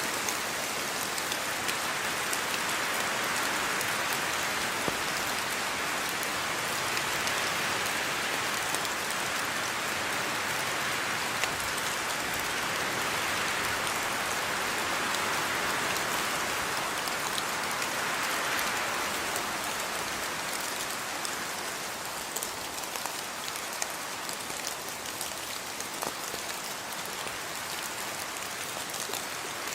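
Steady rainfall, with the hiss of rain and scattered individual drops pattering on surfaces.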